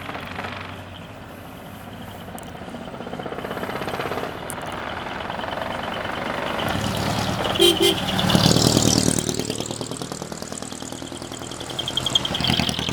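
Decorated Japanese show trucks (dekotora) driving past, their diesel engines running loud through open exhausts. About eight seconds in comes a quick double horn toot, and one truck passes loudest just after it, with its pitch sweeping as it goes by.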